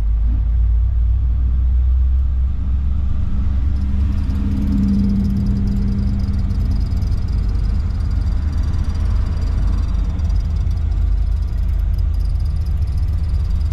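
Engine and road rumble heard from inside the cabin of a classic Chevrolet driving slowly: a steady low rumble, with a hum that swells about four to six seconds in.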